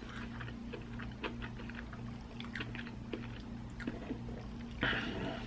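A person chewing fast food close to the microphone: small wet mouth clicks and smacks over a steady low hum, with a brief louder burst of noise near the end.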